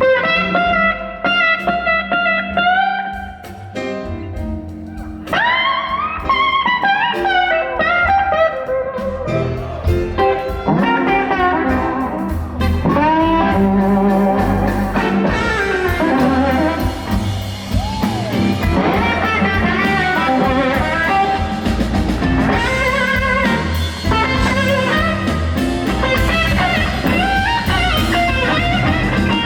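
Live blues band playing: a lead electric guitar solo with gliding, bent notes over bass and drum kit.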